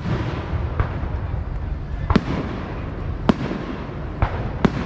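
Fireworks going off: about five sharp bangs at uneven gaps of half a second to a second, over a continuous low rumble.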